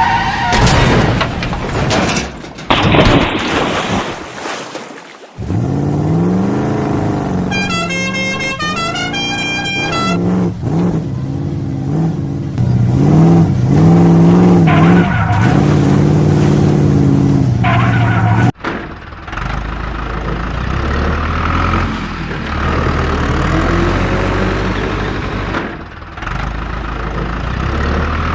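A string of cartoon vehicle sound effects: engines running and revving, with horn-like pitched tones that step and glide and change every few seconds. From about two-thirds of the way through, the sound settles into a steady low engine rumble.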